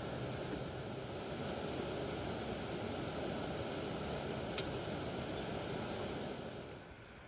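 Steady rushing of a flowing river, with a single sharp click about four and a half seconds in; it drops away near the end.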